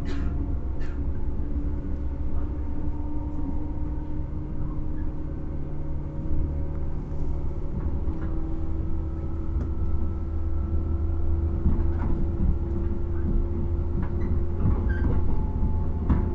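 A JR 115 series electric train running, heard from inside its motor car: a steady low rumble with the hum of its MT54D traction motors and occasional clicks from the track.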